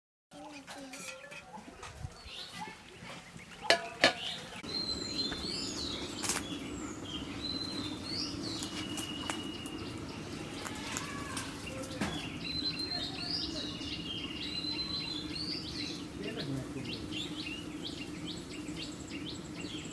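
Small birds chirping over and over, with short rising calls. Two sharp knocks about four seconds in, and a steady low hum underneath from then on.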